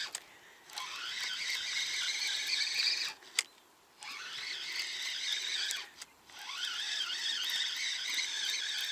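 Fishing reel being cranked, its gears whining in three spells with short pauses, each spell rising in pitch as the winding gets going, with a single click about three and a half seconds in. The line is being wound in after the hook tore off on a snag.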